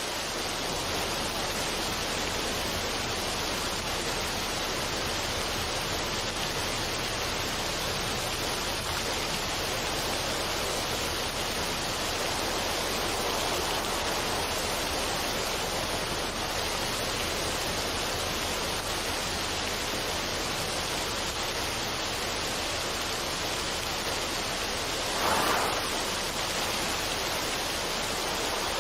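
Steady, even rushing water sound with no music, swelling briefly about 25 seconds in.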